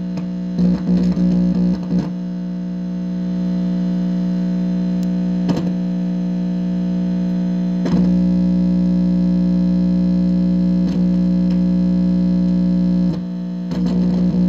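Steady electrical buzz through an amplifier speaker: a strong low hum with a stack of overtones, broken by sharp pops several times, with a brief dip near the end.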